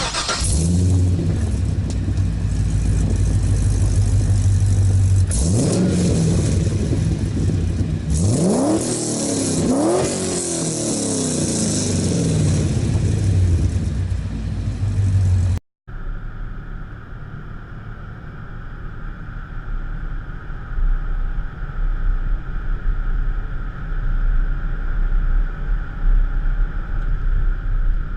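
C6 Corvette's LS2 V8 through long-tube headers, X-pipe and Magnaflow mufflers, idling with a deep, even note and blipped twice, the pitch rising and falling each time. After a sudden cut comes a steady drone of engine and wind at high speed, the car running at about 150 mph.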